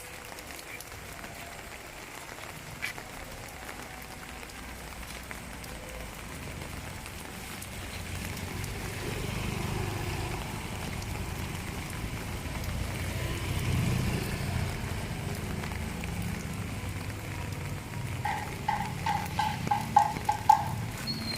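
Steady rain falling, with a low rumble that swells to a peak about two-thirds of the way in and then eases. Near the end comes a quick run of about eight short pitched notes.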